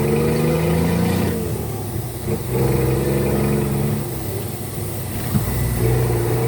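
Scania truck's diesel engine running, its revs easing off twice and coming back up.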